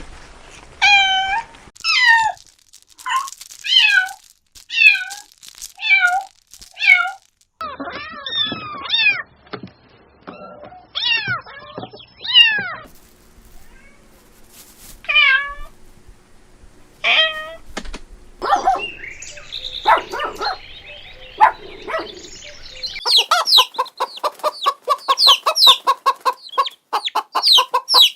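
Kittens meowing: high-pitched mews that fall in pitch, about one a second at first, then more scattered calls, and a fast run of short mews near the end.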